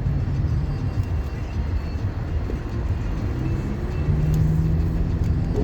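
Car cabin noise while driving: a steady low rumble of engine and tyres, with a steady low hum coming in about four seconds in.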